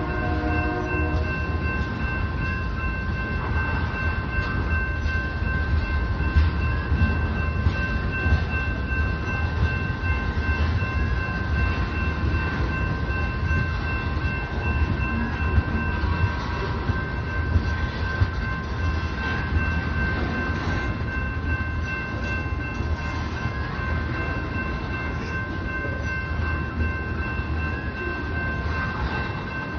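Union Pacific oil train rolling past: a steady low rumble of tank cars on the rails, with a steady high-pitched squeal and scattered clanks.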